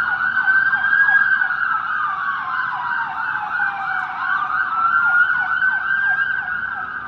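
Emergency vehicle siren, a dee-dah that is taken for an ambulance: a slow wail rising and falling twice, with a fast yelping sweep sounding over it, getting a little fainter near the end.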